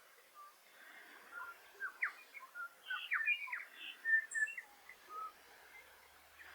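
New Zealand bellbird (korimako) singing a jumbled phrase of short notes and quick slurs. It starts about a second in and lasts about four seconds.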